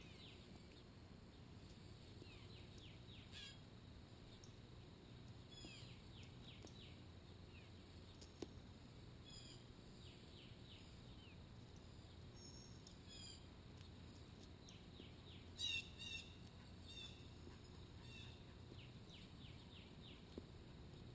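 Faint outdoor ambience: small wild birds chirping, many short high down-slurred chirps repeated throughout, with a louder cluster of calls about sixteen seconds in. A low steady rumble lies underneath, and a single sharp tick sounds about eight seconds in and another near the end.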